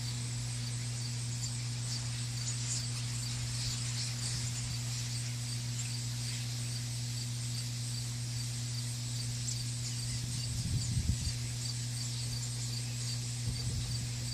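Outdoor ambience: a steady low hum under faint, evenly repeated high chirps. A cluster of low thumps comes about ten seconds in, and a couple more near the end.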